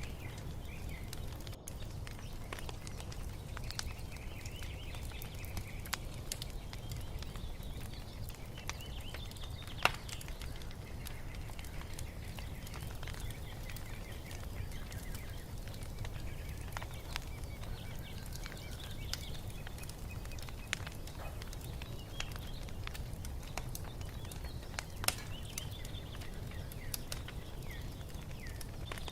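Wood fire crackling, with scattered sharp pops over a low steady rumble; the loudest pop comes about ten seconds in, another near the end. Birds chirp and sing.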